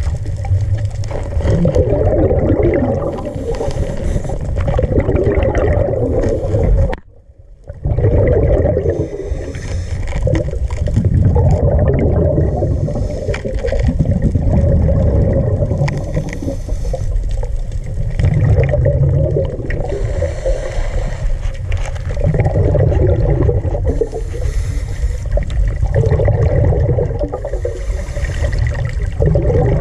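Water gurgling and rushing, with bubbling that swells every three to four seconds, and a short drop-out about seven seconds in.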